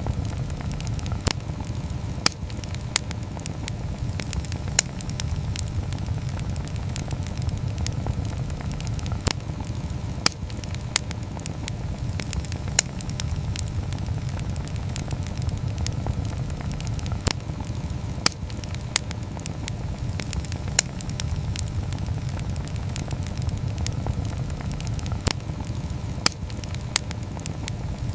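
Wood fire burning: a steady low rumble with sharp, irregular crackles and pops, roughly one every second or two.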